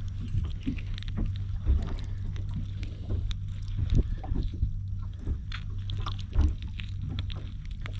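Sounds aboard a small fishing boat on the water: a steady low hum with irregular knocks, taps and clatters of gear being handled on deck, the loudest about a second and a half in, around four seconds in and past six seconds in.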